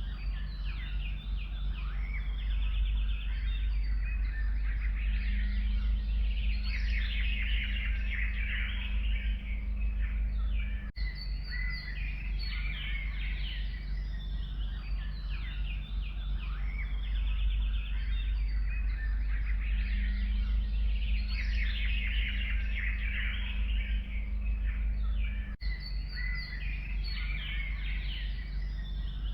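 Many forest birds singing and chirping at once, a dense chorus of overlapping trills and calls over a steady low rumble. The sound drops out for an instant twice, about 11 and 25 seconds in.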